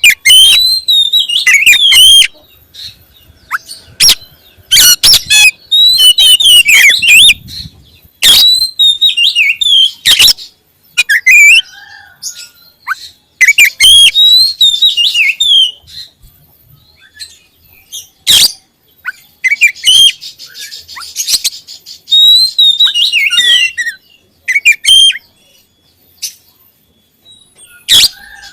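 Oriental magpie-robin (kacer) singing loudly in repeated bursts of fast, varied whistled and harsh notes, with short pauses between phrases.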